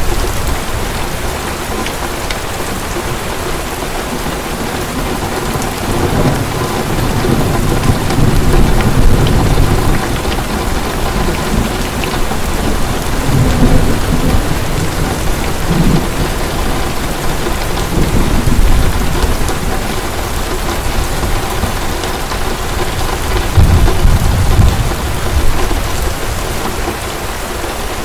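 Heavy rain falling steadily, with several low rolls of thunder that swell and fade through it.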